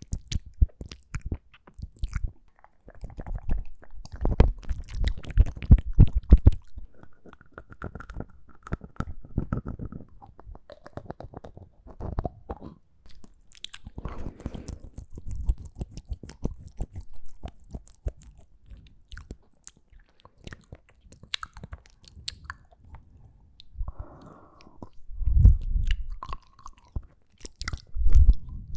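ASMR mouth sounds: wet smacks and clicks of lips and tongue, coming in irregular runs with short pauses and a few heavier low thumps.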